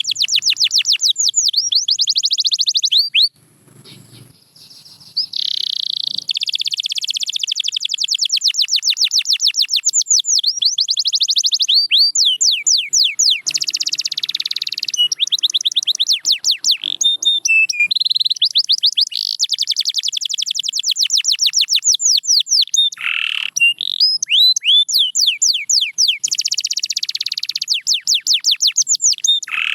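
Domestic canary singing: long runs of rapidly repeated high notes in trills that change speed and pitch from run to run, with a pause of about two seconds early in the song.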